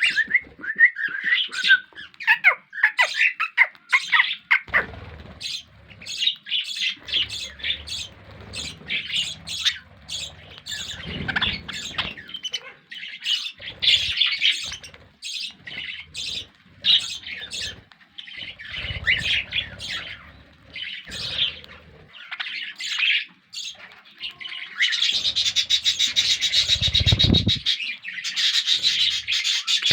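Small pet parrots, lovebirds and budgerigars, chirping and squawking in quick, sharp calls. Near the end the calls run together into a dense, continuous chatter.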